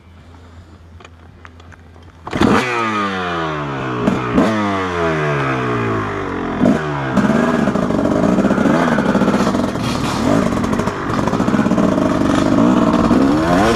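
Dirt bike engine idling low, then from about two seconds in revved hard in three throttle blips, each falling away, before running on steady held throttle with the pitch wavering up and down.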